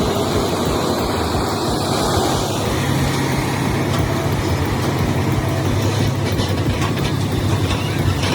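A heavy truck's engine running steadily with a low hum.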